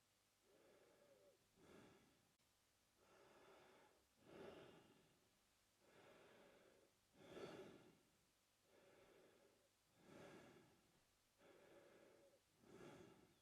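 A man breathing slowly and steadily through his mouth, faint, with about five full breaths, each a softer drawn-out breath followed by a louder, shorter one.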